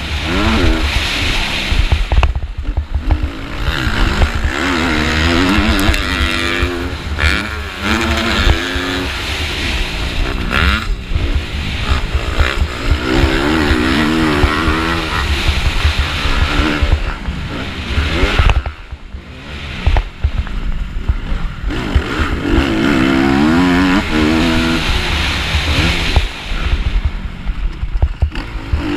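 Motocross bike engine at race pace, revving up and down again and again as the rider works the throttle and gears, over a constant rumble of wind on the bike-mounted microphone. The engine falls off briefly about two-thirds of the way through as the throttle is closed, then pulls hard again.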